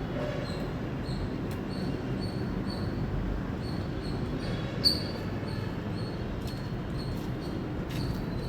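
Indian palm squirrel chirping: short, high, sharp calls repeated about twice a second, with one louder chirp about five seconds in, over a steady low background rumble.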